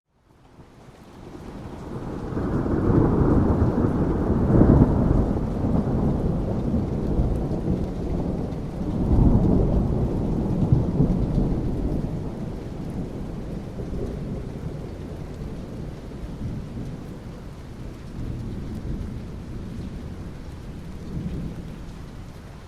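A long roll of thunder over rain. After a brief silence at the start, a deep rumble swells up, peaks twice, then slowly dies away under the steady hiss of rain.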